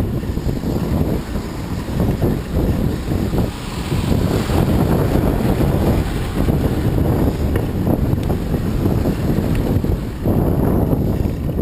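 Wind buffeting the microphone while riding along a road, a loud gusting rumble with the vehicle's running noise underneath, dipping briefly a few times.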